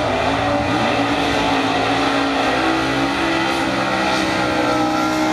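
Drag-race car's engine at full throttle, a loud high-revving note whose pitch sweeps up at the start and then climbs slowly as the car accelerates down the strip.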